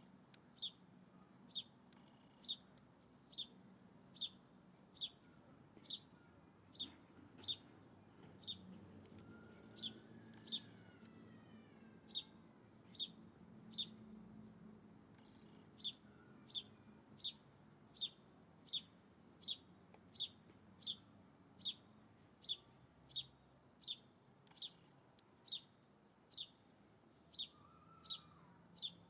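A bird repeating one short, high, sharp call about once a second, evenly spaced, with a few faint sliding calls of another bird in the background.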